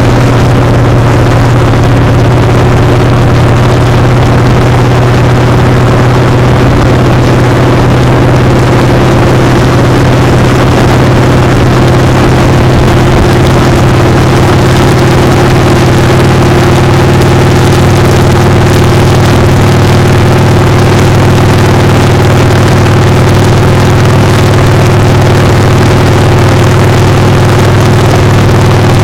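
Motorcycle engine running at a steady, even speed while riding, heard close up from the foot peg, under a loud constant hiss of air rushing past.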